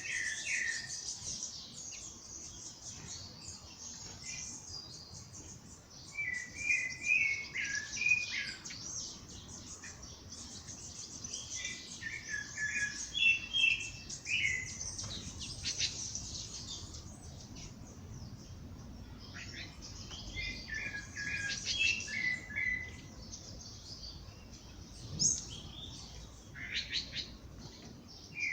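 Dawn chorus of several songbirds: dense high twittering and chirping throughout, with one bird repeating a short phrase of quick stepped notes every six to eight seconds.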